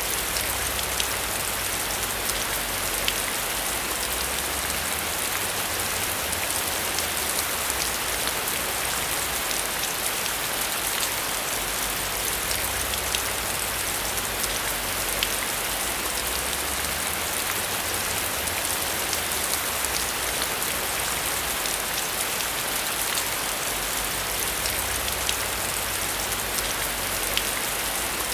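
Heavy rain falling steadily, a dense even hiss with scattered sharp drop hits, over a faint low rumble that swells and fades every few seconds.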